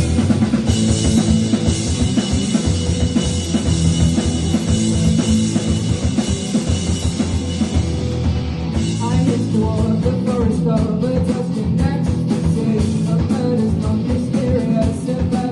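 Rock band playing live: drum kit, bass and guitar under a heavy cymbal wash. About nine seconds in, the cymbals drop back and a wavering melody line comes through over the steady beat.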